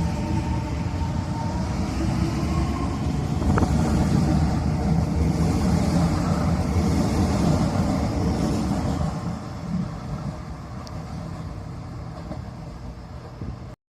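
Taiwan Railway train running past with a steady rumble that swells in the middle, fades over the last few seconds, then cuts off suddenly.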